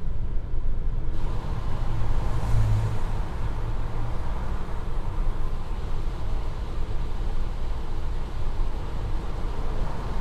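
Steady road and engine rumble of a 1.2-litre, 85 hp Opel Corsa driving, heard from inside the cabin.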